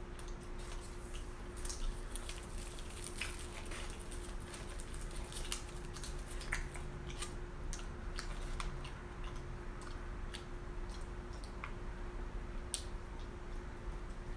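Close-miked chewing and eating: moist mouth sounds with many scattered sharp clicks and smacks, over a faint steady hum.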